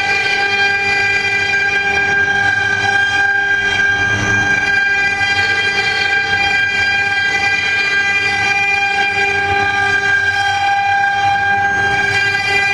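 Double-spindle CNC wood lathe running: a steady, unchanging machine whine with overtones over a rough noise of the spindles and cutting.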